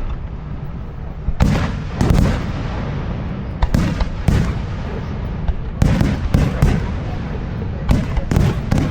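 Aerial firework shells bursting overhead: about ten loud bangs in irregular twos and threes, each followed by a rolling rumble that fills the gaps between them.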